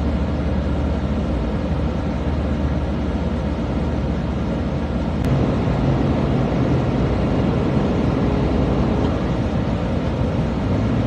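Steady low rumble of vehicle engine and road noise, changing abruptly about five seconds in.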